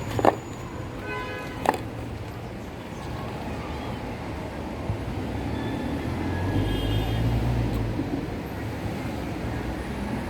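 Steady low rumble of distant traffic, swelling for a couple of seconds past the middle, with two sharp clicks in the first two seconds.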